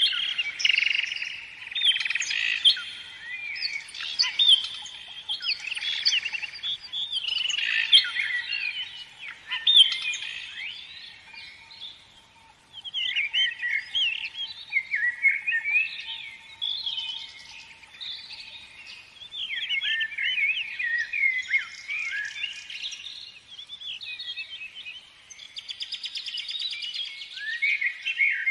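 Several birds chirping and singing: many short, quick, overlapping whistled notes, with a brief lull about twelve seconds in.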